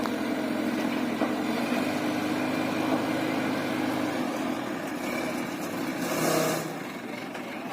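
Engine of a heavy vehicle at a crane truck-lift, running steadily. A brief louder rush of noise comes about six seconds in.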